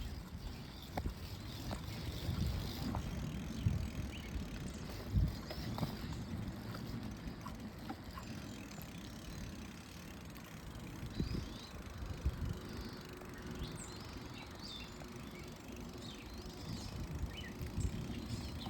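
Bicycle ride with a steady low rumble of wind and movement on the microphone and scattered short knocks and rattles.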